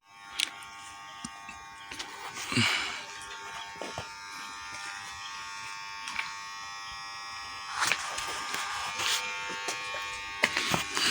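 A steady electrical buzz made of several high, even tones, with a few scattered knocks and short rustling bursts, one about two and a half seconds in and more near the end.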